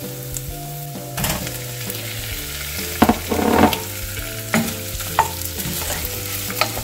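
Onion, garlic and dried chilies sizzling as they fry in butter in a pot, with raw chicken pieces dropped in and clattering against the pan about three seconds in, bringing a louder burst of sizzling.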